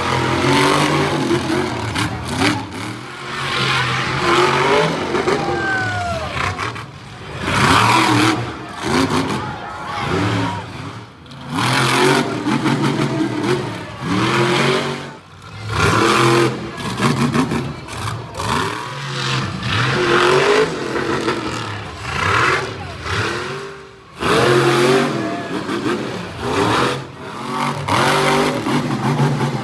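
Monster truck engine revving hard in repeated surges, its pitch rising and falling with the throttle.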